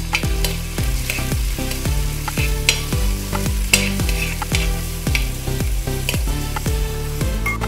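Ginger and garlic sizzling in hot coconut oil in a metal uruli, with a metal spoon stirring and scraping the pan in frequent short strokes.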